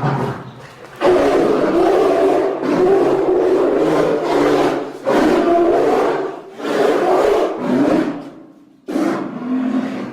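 Creature sound-effect roars of a giant short-faced bear (Arctodus): a short growl, then one long roar of about four seconds followed by three shorter roars.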